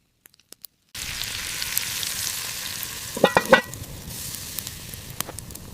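Food sizzling as it fries: a steady hiss that starts about a second in. A short burst of sharp clicks and clinks comes about three seconds in, and the sizzle is quieter after it.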